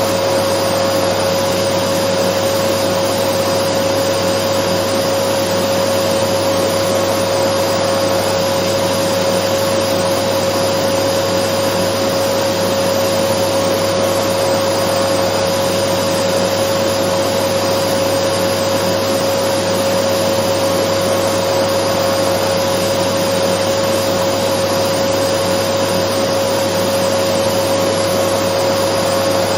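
Dyson vacuum cleaner running continuously: a steady rushing of air with a constant high hum from the motor, unchanging.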